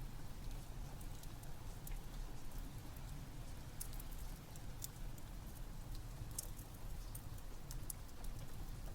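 Rain with a crackling wood fire: a steady low rumble under scattered sharp crackles and pops.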